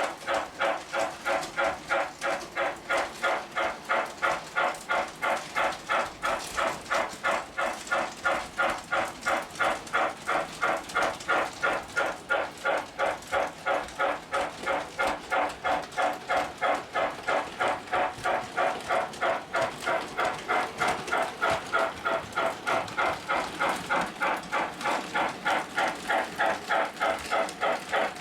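Lionel O gauge model train running on three-rail tubular track, a steady rhythm of about three pulses a second, showing the newly fitted track power feeds are working.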